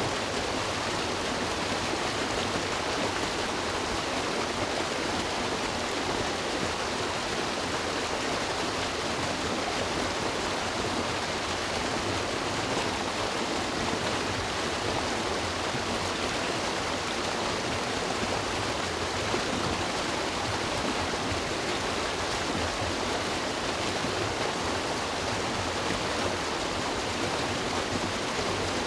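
River water running over rocks: a steady, even rush of flowing water with no breaks or changes.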